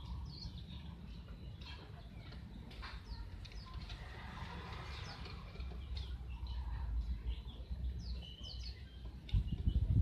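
Small birds chirping in scattered short, high, falling notes, over a low rumble on the microphone that grows louder and choppier near the end.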